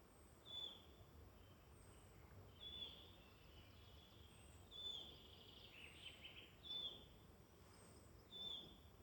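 A songbird repeating a single short, high, slightly falling call about every two seconds, with a brief burst of other bird notes around six seconds in. It is faint, over a soft low woodland background hum.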